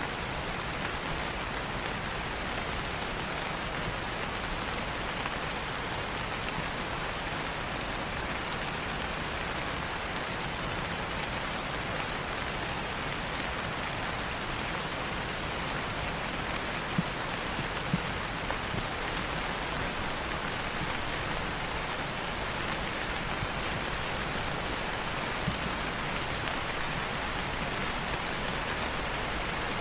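Steady rain falling on leaves, an even hiss with a few sharper drop ticks about two thirds of the way through.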